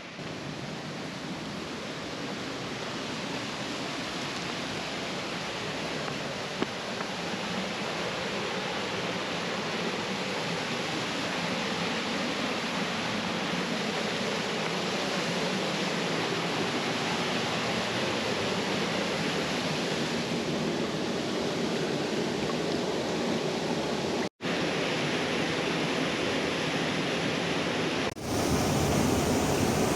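Waterfall rushing steadily, with a brief break about 24 seconds in and a louder rush over the last two seconds.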